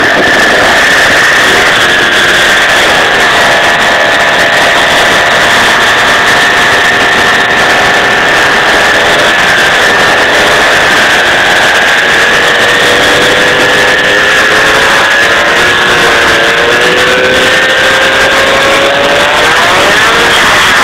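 A 50cc two-stroke engine with a full Pro Race kit running hard and continuously, its pitch climbing slowly over most of the stretch. The recording is very loud and distorted.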